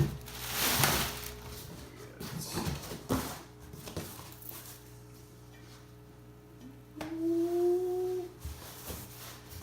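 Parts and packaging being handled: a rustle near the start and several light knocks, over a steady low hum. About seven seconds in, a short whining tone lasts about a second.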